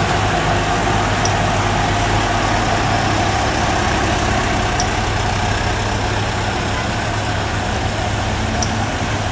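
Hino truck's diesel engine running hard under load on a steep climb, a steady drone that slowly fades.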